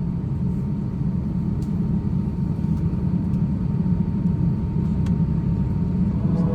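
Steady low rumble of an Airbus A350-900 passenger cabin heard from a seat, from the aircraft's air systems and engines, with a faint click about five seconds in.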